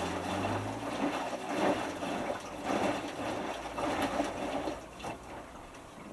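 Hotpoint Futura HF8B593 washing machine drum tumbling a small load through water during the main wash's cool-down, the water sloshing in swishes about once a second. A low motor hum stops within the first second, and the swishes fade away near the end.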